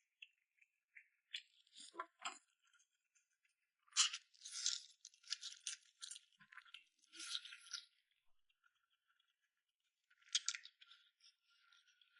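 Close-up eating sounds: chewing and sucking on food in irregular crackly bursts, busiest from about four to eight seconds in and again near ten seconds.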